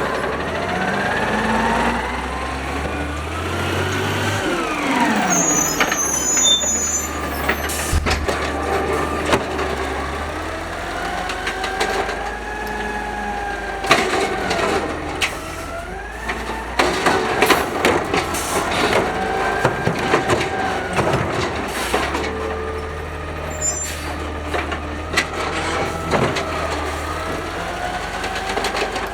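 Automated side-loader garbage truck at work: the engine revs under hydraulic load with a whine that rises and falls several times, broken by sharp clunks and bangs from the arm and cart.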